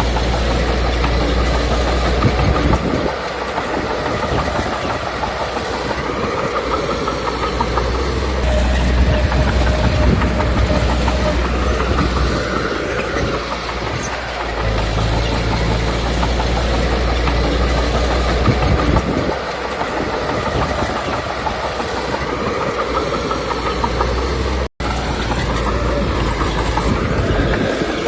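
Komatsu D21P bulldozer's diesel engine working under load while its steel tracks clank, as the dozer pushes stone. The engine swells and eases every few seconds. There is a split-second gap in the sound near the end.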